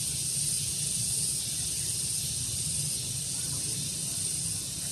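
Outdoor daytime ambience: a steady high-pitched hiss over a low, uneven rumble of breeze, with a faint bird chirp or two.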